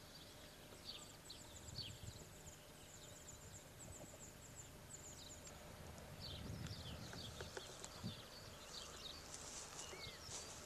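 Faint outdoor ambience of small birds chirping, many short high calls, with a low rumble on the microphone.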